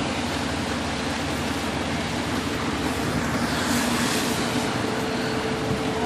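Steady rushing wind noise with a faint engine hum underneath.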